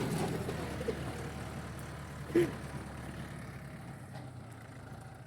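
A vehicle engine running and growing steadily fainter, with one short sharp sound about two and a half seconds in.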